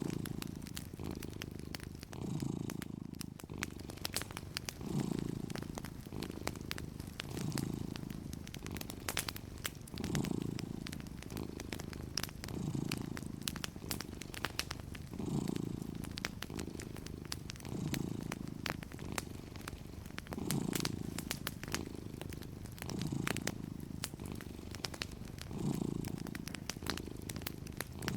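Domestic cat purring steadily, the purr swelling and easing about every two and a half seconds with its breathing. Soft, irregular crackles of a wood fire sound throughout.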